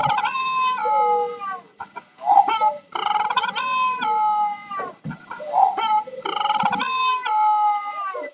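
Bird calling in three long drawn-out phrases, each ending in a falling note.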